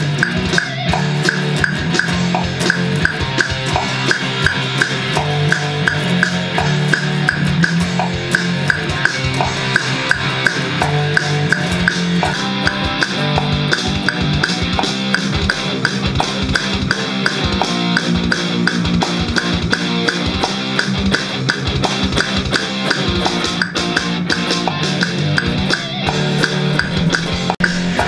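Band music: a drum kit and guitar playing a steady beat.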